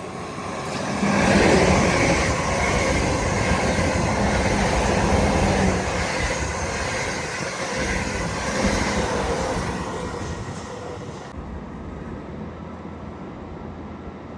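A train passing on the line: its rumble and running noise swell about a second in, stay loud for several seconds, then fade away over the last few seconds.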